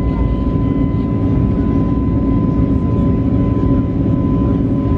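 Cabin noise inside an Airbus A321neo in the climb after takeoff: a steady rumble of the CFM LEAP-1A engines and airflow, with a thin steady tone held throughout.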